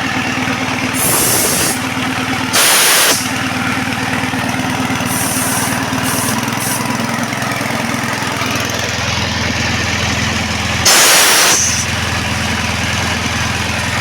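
Engine-driven air compressor with a Tsuzumi TX 200 engine running steadily, its pump building pressure without cutting out. Short bursts of compressed air hiss out about one, three and eleven seconds in, the ones near three and eleven seconds the loudest, with fainter puffs around six seconds.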